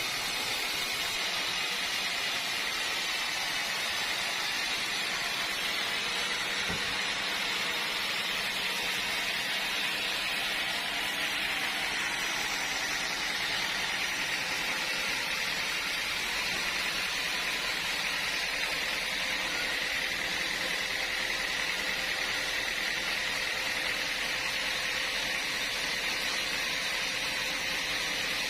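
Sawmill machinery running steadily, a continuous hissing noise with a faint steady whine.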